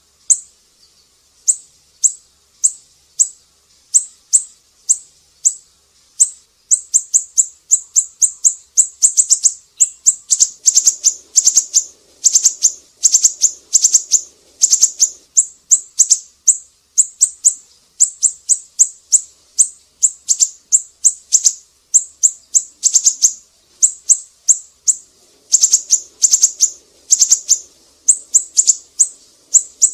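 Siri-siri songbird singing a long run of short, high, downward-sweeping chirps, a few a second at first and packed closer together from about seven seconds in.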